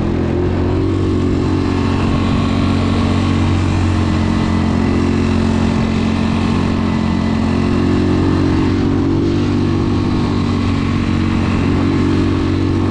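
A 250 two-wheel-drive ATV's engine running steadily under way, its pitch rising and easing off a few times as the throttle changes.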